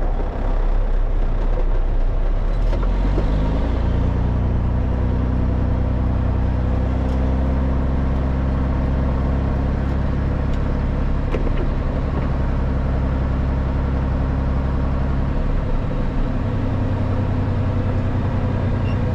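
Dump truck's diesel engine pulling away: the engine note rises about three seconds in, then holds steady, with a change in the engine note about three-quarters through.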